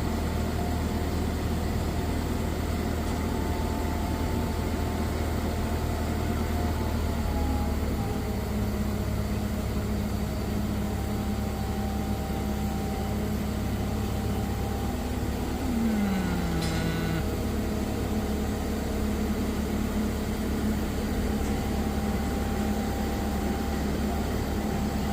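Manitou MRT3570 rotating telehandler's diesel engine running steadily, with a change in its low note about a third of the way in and a short falling whine near the middle.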